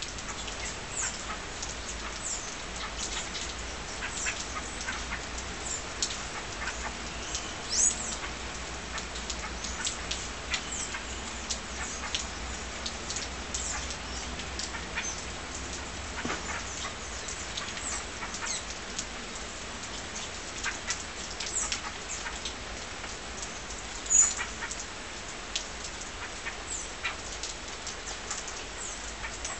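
Many small birds chirping, a dense stream of short high calls with a louder call about 8 seconds in and another about 24 seconds in, over a steady low hum.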